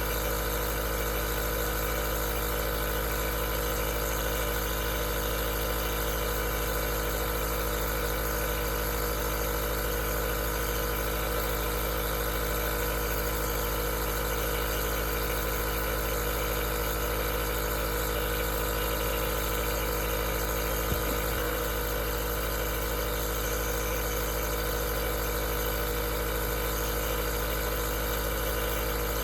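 Aerosol nebulizer running with a steady, unchanging motor hum, with a small click about two-thirds of the way through.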